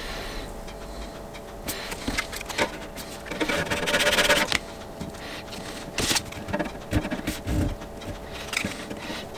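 A plastic squeegee card scraping and rubbing over a decal's paper application tape on a painted fuel tank, with crinkling and clicking as the tape is handled and peeled back. The longest scrape comes about three to four and a half seconds in.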